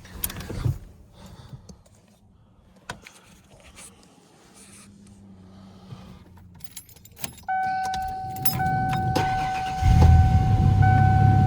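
Keys jangling in the cab of a Ford Ranger pickup, then the truck's warning buzzer sounding in steady on-and-off tones as the key goes in. The engine turns over and catches about ten seconds in, then keeps running loudly alongside the buzzer.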